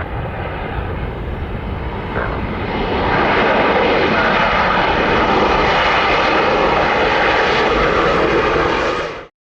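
Jet airliner's engines passing close by, growing louder about two to three seconds in and then holding loud and steady, before cutting off suddenly near the end.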